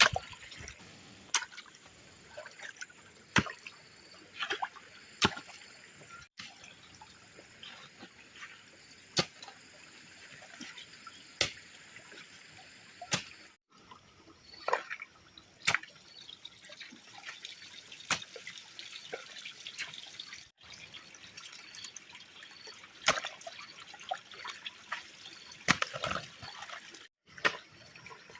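Water trickling and dripping at a water intake, with sharp clicks or knocks every second or two. The sound cuts out briefly a few times.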